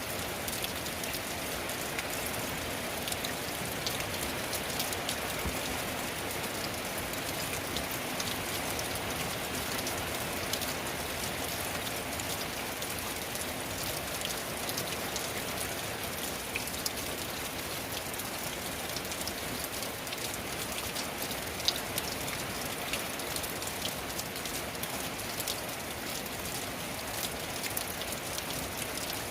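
Steady rain falling on a tin roof, a constant hiss with many individual drops ticking on the metal and one louder tap about three-quarters of the way through.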